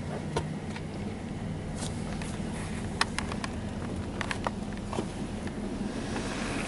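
Low steady hum heard from inside a truck's cab in a touchless automatic car wash, paused between wash stages, with scattered light ticks.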